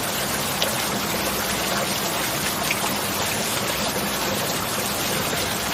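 Steady heavy rain: an even wash of falling water with scattered small drop ticks and no thunder.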